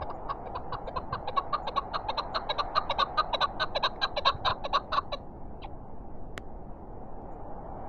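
Chukar partridge calling a fast run of clucking notes, about seven a second, for some five seconds, over a steady hiss of wind. A single sharp click follows shortly after.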